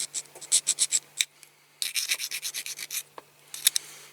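Hand file rasping on a diecast metal rivet post in quick short strokes, about five or six a second, with two brief pauses.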